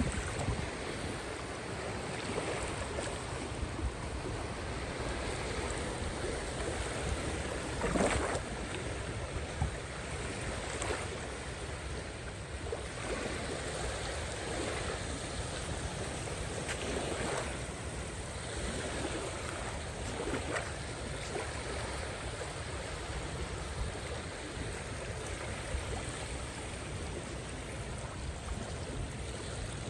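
Caspian Sea waves washing in: a steady rush of surf, with a louder wave breaking every few seconds, over a low rumble of wind on the microphone.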